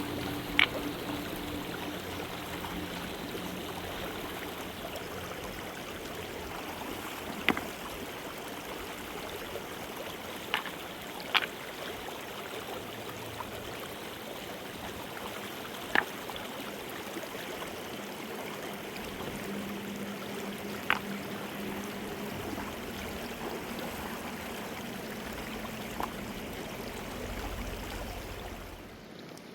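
Mountain river water rushing steadily. About seven sharp, brief clicks or knocks sound at irregular intervals over it.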